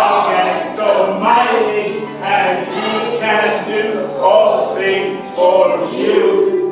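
Music with a group of voices singing together, choir-style.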